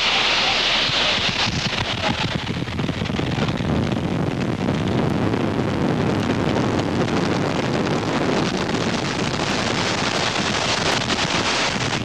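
Tornado winds blasting over and around a highway overpass and buffeting the microphone: a loud, unbroken rush. About two seconds in, the rush drops from a hiss to a deeper rumble.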